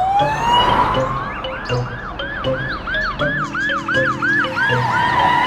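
Police car siren: a slow upward swoop, then a fast rising-and-falling yelp about three times a second that fades near the end. A light repeating music beat plays underneath.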